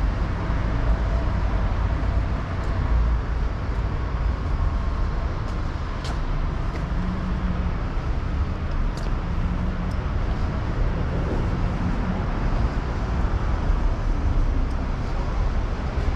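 Steady city road traffic: cars and buses running along a busy street, a continuous low rumble with an engine hum passing through the middle and a few light clicks.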